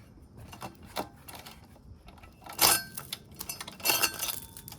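Minibike roller chain clinking and rattling as it is pulled off, with scattered metallic clicks and two louder clanks, the first about two and a half seconds in and the second near four seconds.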